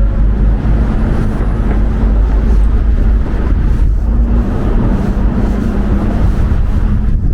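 Wind buffeting the microphone in a loud, continuous rumble, over street traffic with a steady engine hum.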